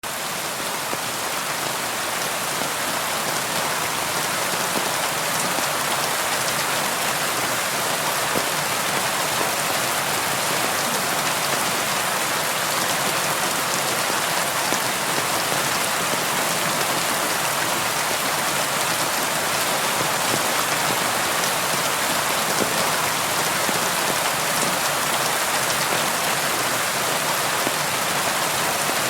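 Steady rain on window glass, an even hiss. It fades in over the first second and then holds steady.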